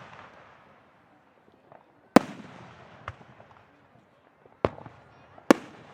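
Aerial firework shells bursting: a sharp bang about two seconds in and two more near the end, each followed by a rolling echo that fades away, with a few smaller pops between.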